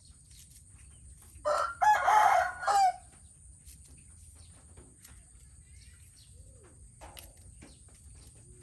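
A rooster crowing once, starting about a second and a half in and lasting about a second and a half. Low background with scattered faint clicks and a steady high-pitched hiss.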